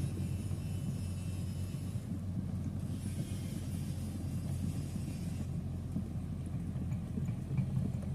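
Backhoe excavator's diesel engine running with a steady low rumble.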